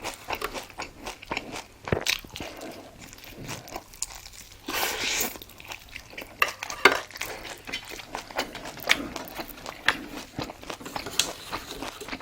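Close-miked eating sounds: chewing and crunching bites with wet mouth clicks, plus a longer rustling burst about five seconds in.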